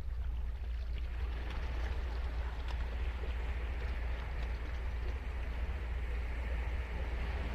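Ocean surf washing onto the beach, a steady rush that swells about a second in, over a constant low rumble.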